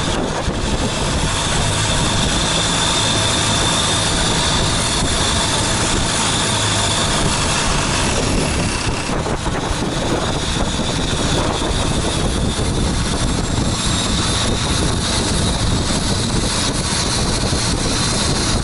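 A motorboat's engine running steadily under way, with wind buffeting the microphone.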